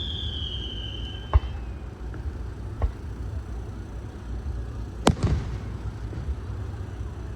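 Fireworks display: a whistling shell's falling whistle dies out about a second and a half in, then shells burst with sharp booms, a weaker one about three seconds in and the loudest about five seconds in, which rings on briefly.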